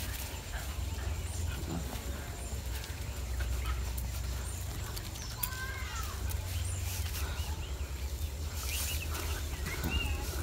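A few faint bird calls, two or three arching cries about halfway through and short chirps near the end, over a steady low rumble.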